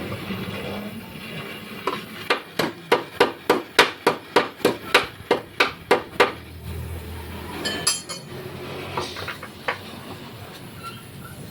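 Hammer beating on metal: a quick, even run of about seventeen blows, roughly four a second, then a few scattered strikes.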